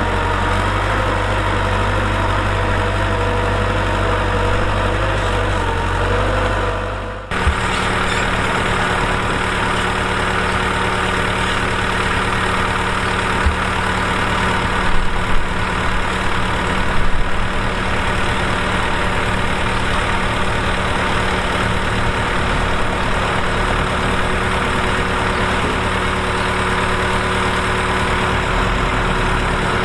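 Heavy earthmoving machine's diesel engine running steadily. About seven seconds in, the sound cuts abruptly to a different engine note, and a few brief louder bumps come in around the middle.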